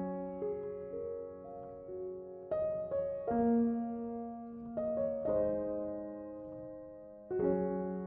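Soft background piano music: slow chords struck every second or two, each left to ring and fade.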